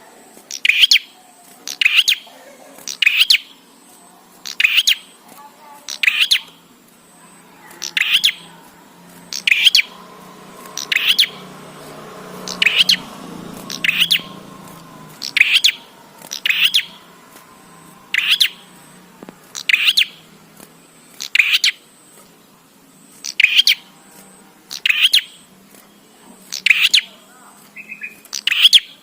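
Prenjak calling persistently: short, sharp chirps, often in quick pairs, repeated about every one and a half seconds.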